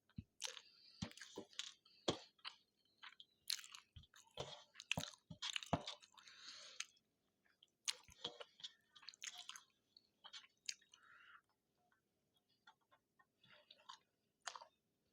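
Close-miked chewing of a mouthful of rice and spicy potato bhaji: wet mouth clicks and smacks in irregular bursts, with a couple of short pauses.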